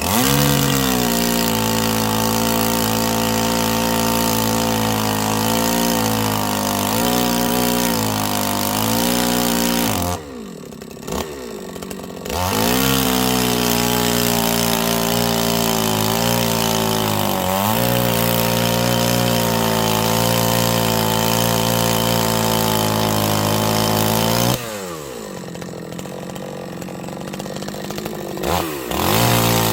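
Chainsaw running at high revs while cutting firewood logs; the engine pitch sags and recovers as the chain bites. It drops back twice, about ten seconds in and again near the end.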